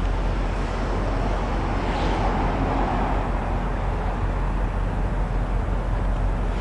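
Steady low engine rumble with a deep hum, with a brief swell of noise about two seconds in.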